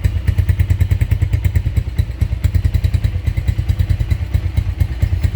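Chopper Road motorcycle engine idling through an aftermarket Torbal conical exhaust, a steady low exhaust pulse repeating about eight to nine times a second.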